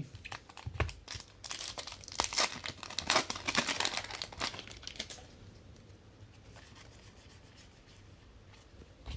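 Trading card pack wrapper being torn open and crinkled: a quick run of tearing and crackling for about five seconds, then only faint handling.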